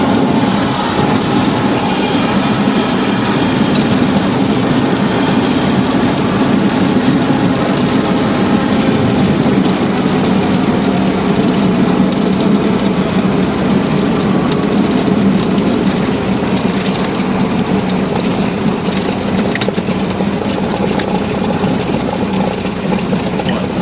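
Cessna 172's piston engine and propeller running steadily, heard from inside the cabin as a loud, even drone with a low hum.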